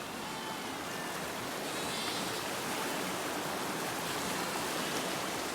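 Steady rushing of a flood-swollen creek running high after heavy rain.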